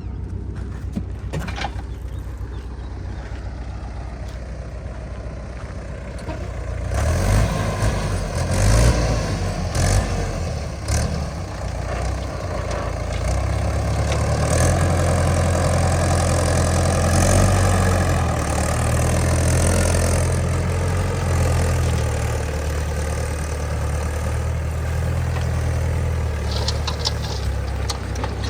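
Heavy diesel machine engine running, low at first, then louder from about seven seconds in with several clanks and knocks, and running steadily at higher revs after that.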